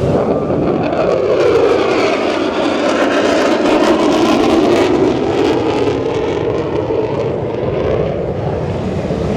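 An aircraft flying over, its engine drone swelling to a peak around the middle and fading towards the end.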